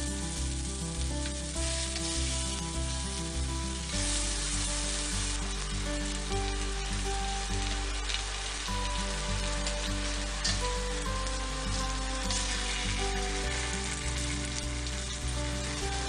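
Smoky tempeh strips frying in hot olive oil in a stainless steel pan, a steady sizzle that holds throughout.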